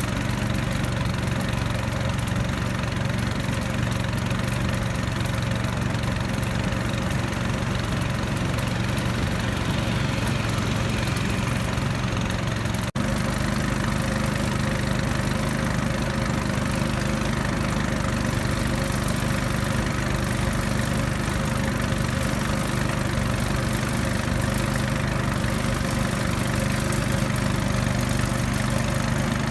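A river raft's small outboard motor running steadily at an even pitch, with a momentary break about halfway through.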